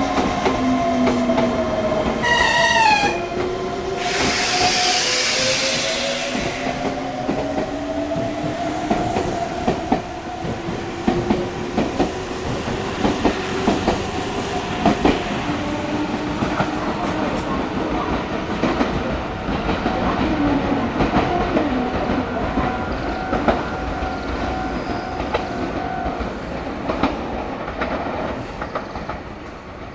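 Meitetsu electric train moving through the station: steel wheels clacking over rail joints, with motor whine that glides up and down in pitch. A brief falling tone comes about two seconds in, and a short hiss about four seconds in.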